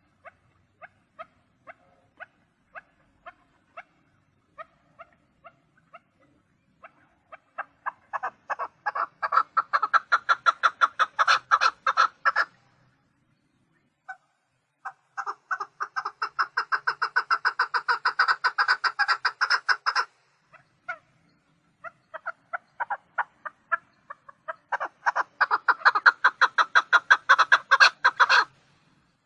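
Chukar partridge calling: slow, spaced clucks that speed up into loud runs of rapid chattering notes, three runs with short pauses between them.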